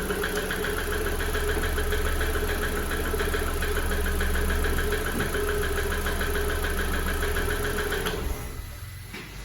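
MG 550 four-cylinder petrol engine idling with the ignition coil pulled from its third cylinder, so that cylinder is not firing. The piston knock has dropped out, which marks the third cylinder as the knocking one. The engine sound drops away about eight seconds in.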